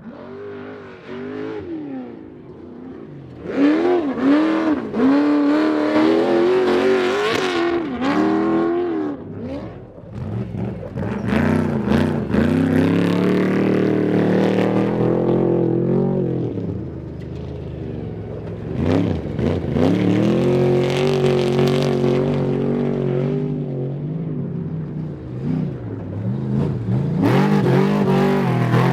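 Trophy truck engines racing past one after another, revving up and down hard through gear changes, the pitch rising and falling with each pass.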